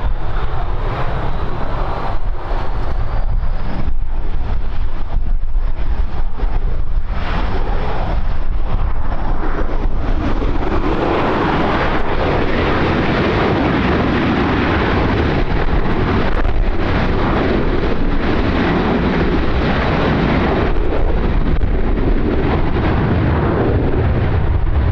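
Wind buffeting the microphone over the engine noise of a jet airliner. The engine sound grows louder and fuller about ten seconds in, with a thin whine rising slowly in pitch before that.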